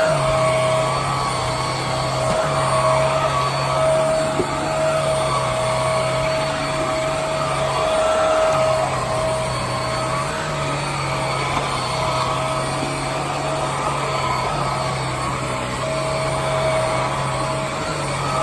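Hoover WindTunnel Air Steerable upright vacuum cleaner running steadily, its motor and airflow noise topped by a constant whine.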